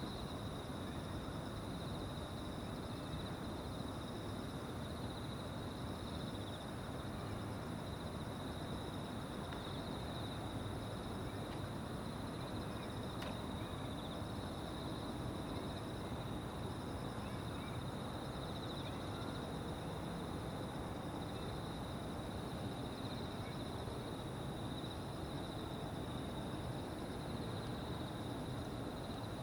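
A chorus of insects trilling without a break in several high-pitched bands, over a low, steady background rumble.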